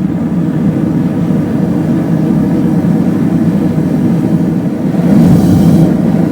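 Gas forge burner running just after lighting, a steady low rushing of the flame, with a brief higher hiss added about five seconds in.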